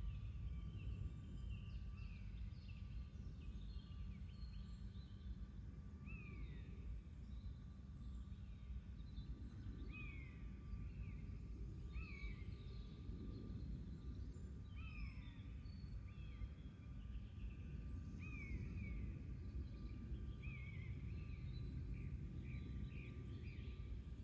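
Birds chirping in short downward-sliding calls every second or two, over a steady low background rumble of outdoor noise.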